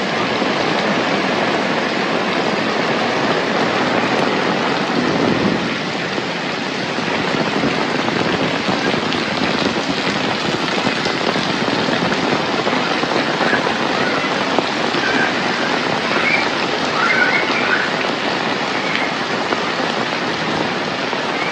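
Heavy rain falling steadily, an even, dense hiss of downpour with no let-up, and a few faint, brief high chirps about two-thirds of the way through.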